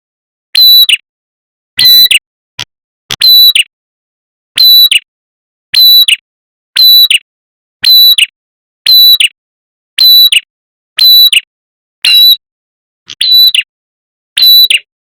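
A prenjak kepala merah bird's lure call, repeated in a steady loop: a short, sharp note about once a second, with a quick bend at the end of each note.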